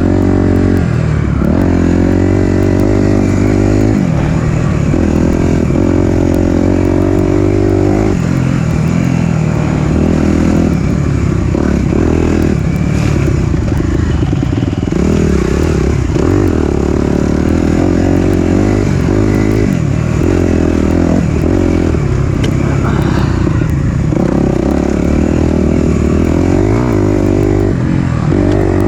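Four-stroke dirt bike engine being ridden, the throttle opening and closing so the pitch keeps rising and falling.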